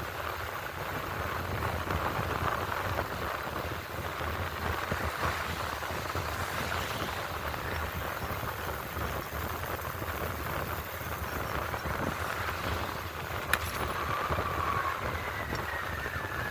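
Wind rushing over the microphone, with tyre noise, as an electric bike descends a hill at speed. There is one sharp click about three-quarters of the way through, and a faint high tone that slowly falls in pitch near the end.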